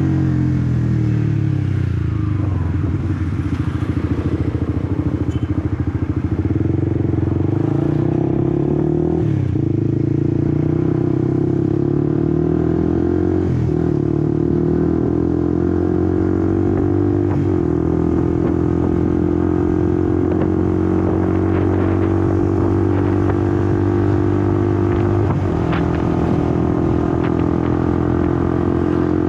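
Honda CBR150R V3's single-cylinder engine on the move. Its pitch falls over the first few seconds, then climbs, with a sharp brief dip at each upshift, four times in all.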